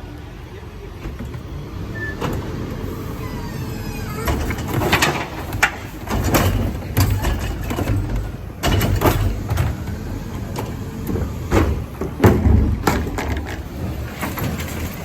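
Garbage truck engine running with a low rumble, under a string of irregular knocks and clatters from about four seconds in.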